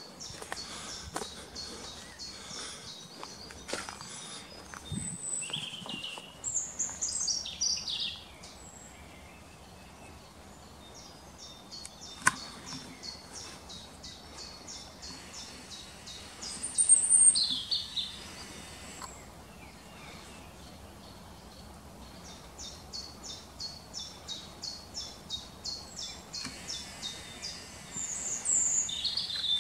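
Woodland birds singing: runs of quick, evenly repeated high notes at about three to four a second, broken by louder phrases that fall in pitch.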